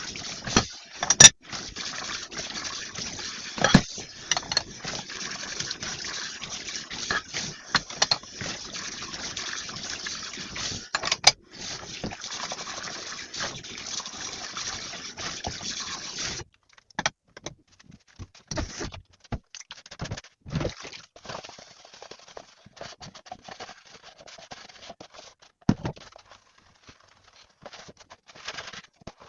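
Kitchen tap water running, with sharp clinks and knocks of dishes being handled. About halfway through the water shuts off suddenly, leaving scattered clinks and scrapes of dishes.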